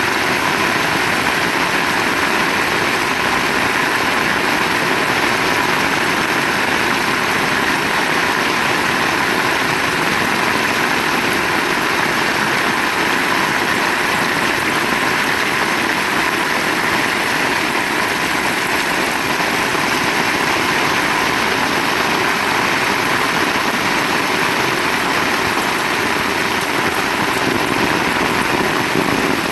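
Heavy rain pouring in a steady, dense downpour, without a break or a thunderclap.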